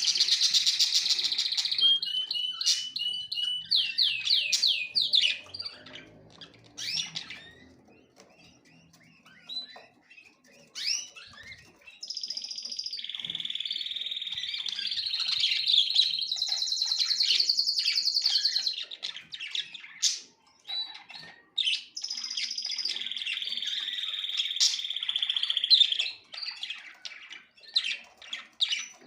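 Small songbirds singing, with long rapid trills and quick chirps. A quieter stretch comes about seven to twelve seconds in, then long trilled phrases return.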